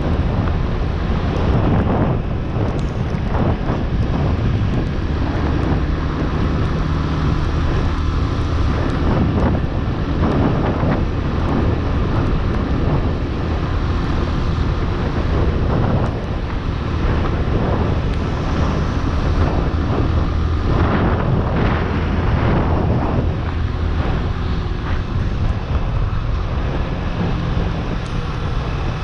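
Chopper Road 150cc motorcycle engine running steadily at road speed, the bike still being broken in at about 600 km. Heavy wind buffeting on the unshielded action-camera microphone.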